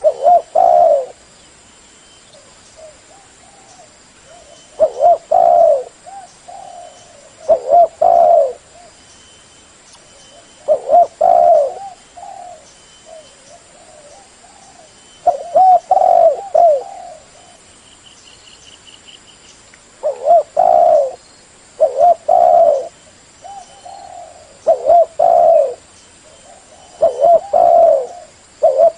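Spotted dove cooing loudly: a roughly one-second cooing phrase repeated about ten times, every two to three seconds.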